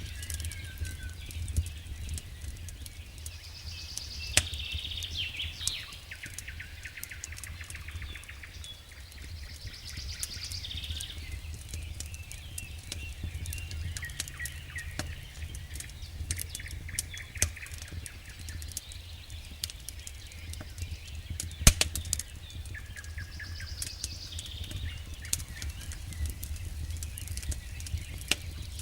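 Wood fire burning in a fireplace: a steady low rumble with irregular crackles and sharp pops, two of them louder, about four seconds in and a little past twenty seconds in. Short higher chirping sounds come back a few times over the crackle.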